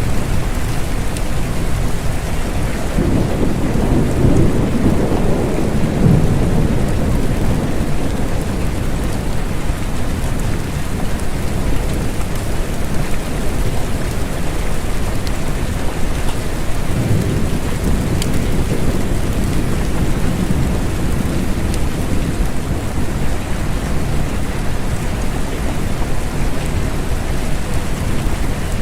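Steady rain falling, with two low rolls of thunder, one about three seconds in and another about seventeen seconds in.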